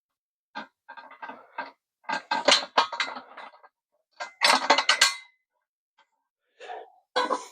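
Metal hand tools clinking and clattering as they are handled, in several short bursts of quick clinks with pauses between, the busiest about two seconds in and again about halfway through.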